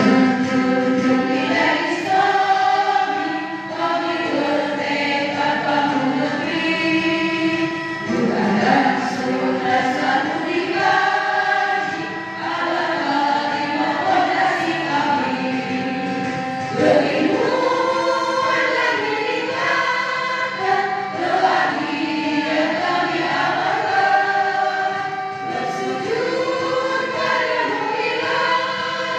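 A group of voices singing a march song together, a rehearsal of the song, with musical accompaniment.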